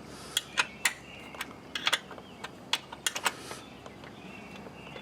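Hand tools and metal parts clicking and clinking as they are handled, about a dozen sharp irregular clicks over the first three and a half seconds, then quieter.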